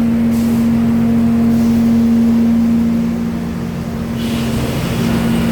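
Sawmill machinery running with a loud, steady hum on one held tone. The level dips slightly about three and a half seconds in, and a higher hiss joins about four seconds in.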